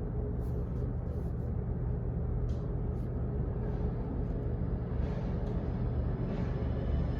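Office background noise: a steady low hum or rumble with a few light clicks and taps at uneven moments.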